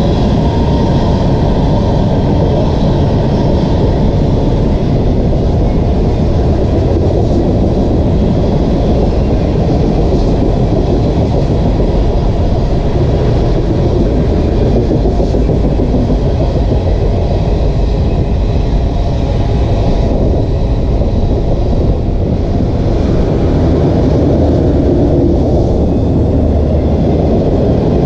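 Union Pacific mixed freight train rolling past, a loud, steady rumble of steel wheels on rail.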